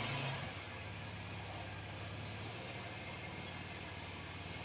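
A murai songbird giving short, high chirps that slide downward, about six in four and a half seconds at uneven intervals, over a steady background hiss and low hum.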